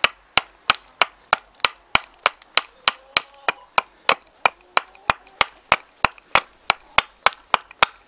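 Axe hewing a blank of dry, seasoned alder on a block: a quick, even run of sharp chopping strikes, about three a second. The wood is very hard, like concrete.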